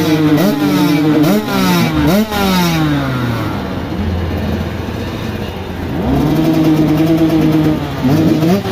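Motocross bike engines accelerating hard, the pitch climbing in several quick steps as the gears change, then falling away. A steady engine note holds from about six seconds in, and the revving picks up again near the end.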